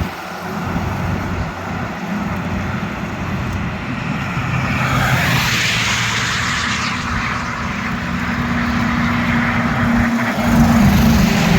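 Highway traffic: a heavy truck engine drones steadily, with a loud rush of tyre and wind noise as a vehicle passes close about five to seven seconds in.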